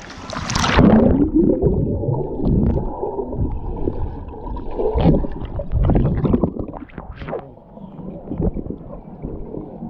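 A splash as a swimmer plunges into a pool. It is followed by muffled gurgling, bubbling and sloshing of water with irregular thumps from swimming strokes, dulled as if heard from underwater.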